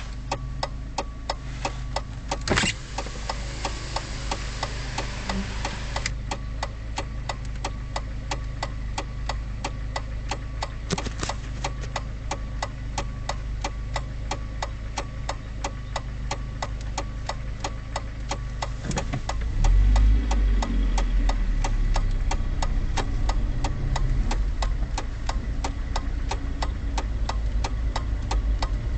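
Car engine idling with a steady low hum and an even ticking of about three ticks a second. There is a sharp click a couple of seconds in. About twenty seconds in, the engine grows louder as the car pulls away.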